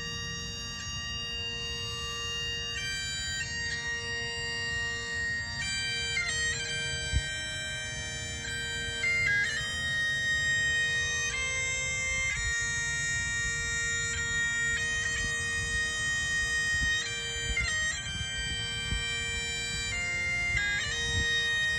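Bagpipes playing a slow tune over a steady drone, with quick grace-note flourishes between the melody notes.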